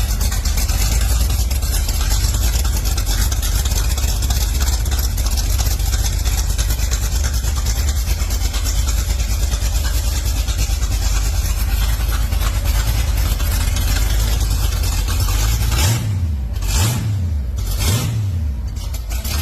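Car engine running with a heavy, steady low rumble, then revved in three quick blips near the end, the pitch rising and falling each time.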